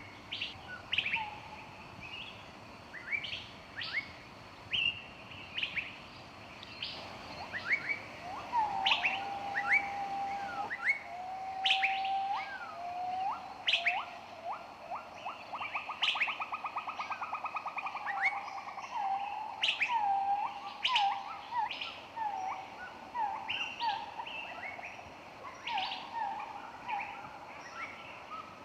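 Several songbirds chirping, with many short, sharp high chirps throughout. From about seven seconds in, a lower whistled call joins, with notes hooking upward, and a fast trill rises out of it around the middle.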